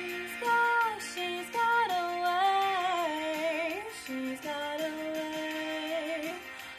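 A woman singing a pop song cover, in long held notes that slide between pitches, with vibrato on a held note about halfway through.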